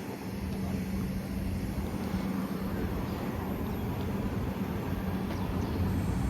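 A car engine running steadily at idle, a constant low hum.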